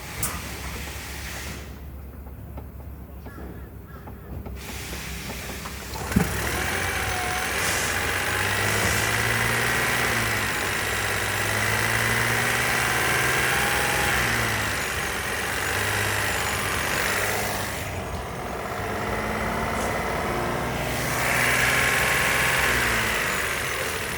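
2021 Toyota Yaris Cross's 1.5-litre three-cylinder petrol engine starting about six seconds in, then running, its revs rising and falling several times.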